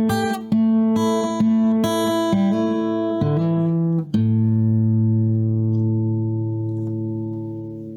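Guitar music: plucked chords struck about twice a second, then a final low chord about four seconds in, left ringing and slowly fading.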